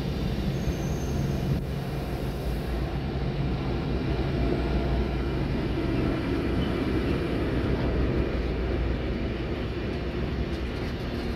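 DB Cargo class 261 (Voith Gravita) diesel-hydraulic shunting locomotive passing with a train of grain hopper wagons. A low engine drone is plainest in the first few seconds, then a steady rumble of wagon wheels rolling past.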